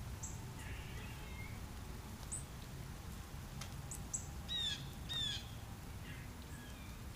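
Wild birds calling: a few short, high chirps scattered through, and two louder harsh calls in quick succession just past the middle, over a steady low outdoor rumble.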